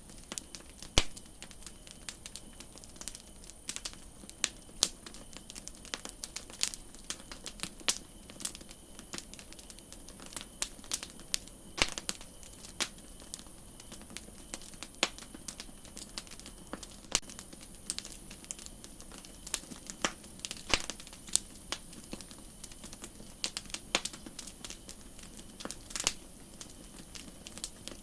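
Wood campfire crackling: irregular sharp pops and snaps, a few much louder than the rest, over a steady high hiss.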